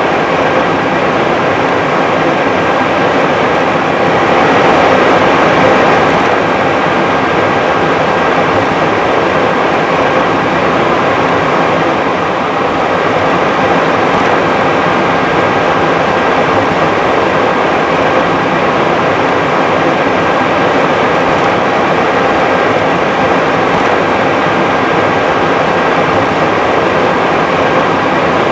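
Steady cockpit noise of an Airbus A320 rolling on the ground after landing: an even rush of engine and air noise with a thin, steady whine above it.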